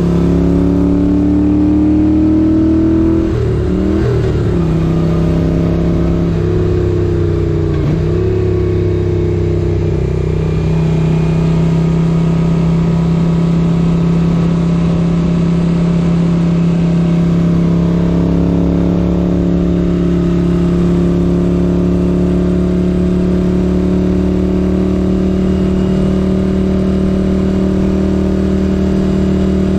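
1978 Moto Guzzi 850 Le Mans air-cooled V-twin under way. The engine pitch drops and climbs again at about three and eight seconds in as it shifts up, then settles into a steady cruise.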